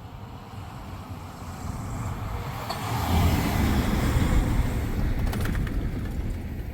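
A motor vehicle drives past, its rumble swelling to a peak about halfway through and then fading away.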